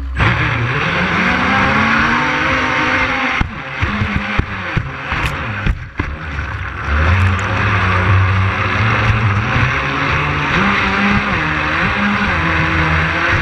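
Twin brushless electric motors of an RC catamaran speedboat running at speed over the water, with a loud rush of water and spray. Their pitch climbs over the first seconds, the sound drops and breaks up between about three and a half and six seconds in, then picks up again and holds fairly steady with small throttle changes.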